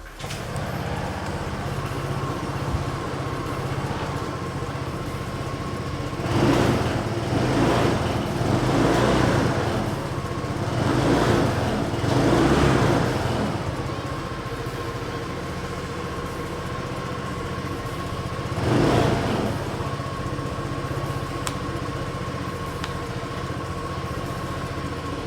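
Honda PCX125 scooter's single-cylinder four-stroke engine starting up and idling steadily, with the throttle blipped several times a few seconds in and once more later, each rev falling back to idle.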